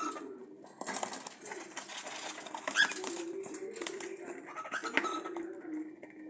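Pet cockatiels chirping and chattering in short, scratchy calls, over a low wavering cooing tone.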